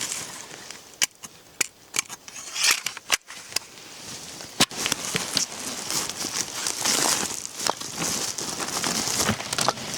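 Crinkling and crackling handling noise with scattered sharp clicks, becoming denser and steadier about halfway through.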